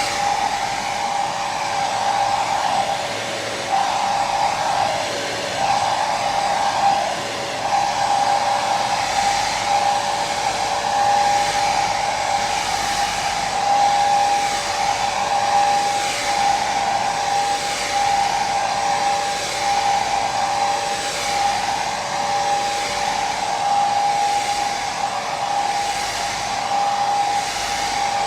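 Electric hair dryer running steadily, its fan noise carrying a constant whine with a slight waver.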